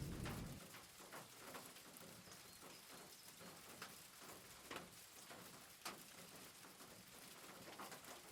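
Near silence, with a few faint, short clicks and taps scattered through it. A low rumble dies away in the first half-second.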